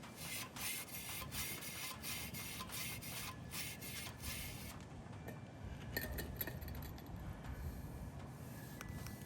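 A brush scrubbing against the cast-iron 383 engine block to clean off rust and dirt: quick, rough strokes for the first four to five seconds, then fainter scraping with a few light clicks.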